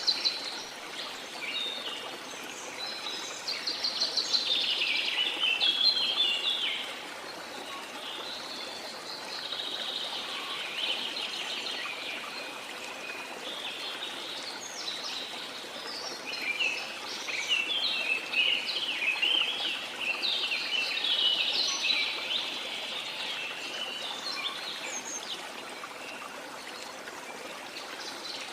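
Steady rush of a waterfall, with tropical rainforest birds singing over it in several bursts of chirps and trills.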